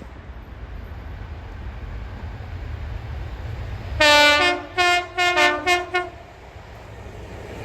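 Two-tone train horn sounded about halfway through: one longer blast, then several short ones, over the low rumble of an approaching train that grows louder.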